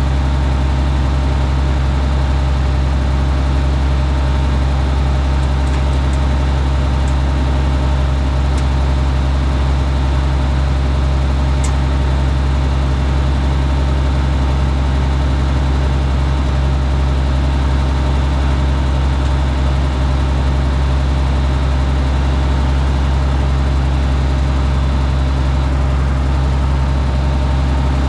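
Minneapolis Moline G900 LP tractor's six-cylinder engine idling steadily, running again once the twigs of a bird's nest were cleared from its pipe.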